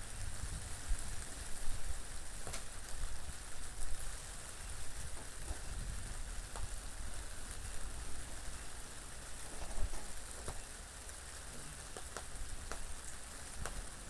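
Steady rain falling, with scattered sharper drop ticks over a low, shifting rumble of wind.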